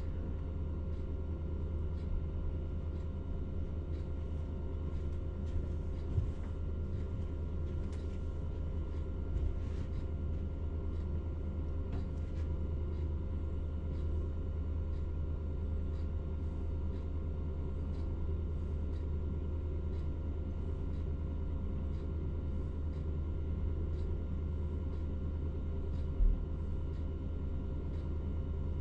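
A crane's engine running steadily, a low, even rumble with a steady hum and occasional faint clicks.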